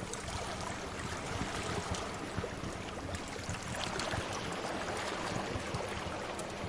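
Steady wash of sea waves with occasional small crackles from a wood fire over it.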